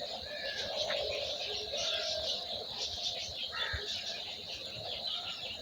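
A chorus of many birds chirping and singing at once, short overlapping calls and twitters with no pause.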